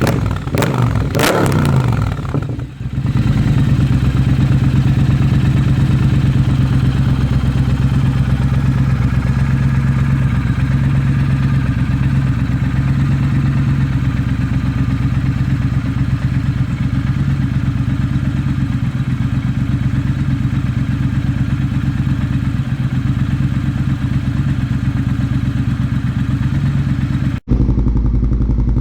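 Triumph Bobber's 1200 cc parallel-twin engine breathing through a Delkevic exhaust with its baffle fitted. It is blipped up and down in the first few seconds, then settles to a steady, even run. Near the end the sound breaks off sharply and comes back duller.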